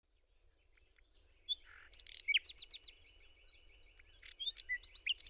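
Songbirds singing and chirping: quick whistled notes and sweeping calls, several birds overlapping, fading in from near silence over the first second.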